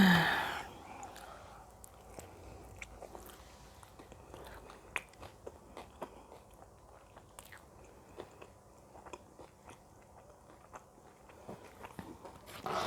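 Close-miked chewing and biting of Pizza Hut pizza: many small wet mouth clicks and soft crunches, with a brief voiced sound right at the start.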